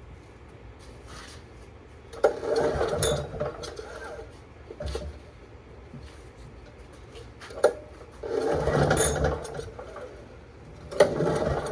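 Honda EM3000 generator engine being cranked over three times, each time for about a second with a fast mechanical chatter, and not catching.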